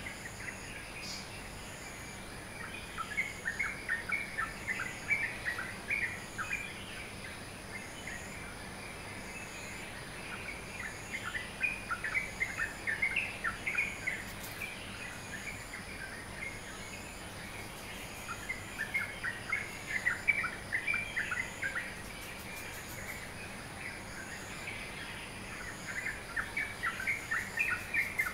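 Songbirds of the dawn chorus chirping in bouts of rapid chirps lasting several seconds, with short lulls between them, over a faint steady high-pitched tone.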